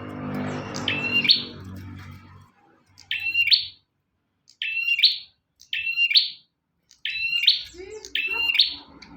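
Bar-winged prinia (prenjak) calling: short chirps repeated about once a second, six or so in all, with short gaps between. A low hum runs under the first two seconds.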